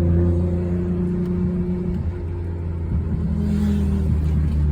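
Nissan GT-R engine running steadily under way, a loud low drone with a held engine note. The note drops off briefly about two seconds in and then picks up again.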